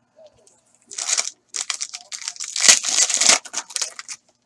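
Foil card-pack wrapper being torn open and crinkled in the hands: a short rip about a second in, then a longer stretch of crackling rustle.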